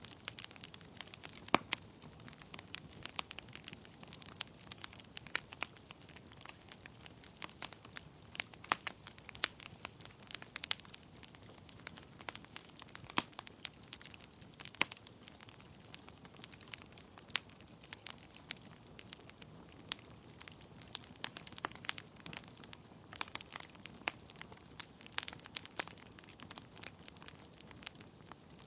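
Wood fire in a fireplace crackling: burning logs give irregular sharp pops and snaps over a soft steady hiss of flame.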